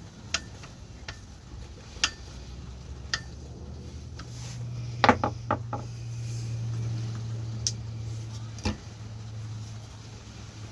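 Scattered sharp clicks and knocks from handling the metal and plastic parts of a bench drill, including a quick run of four about five seconds in, over a low steady hum.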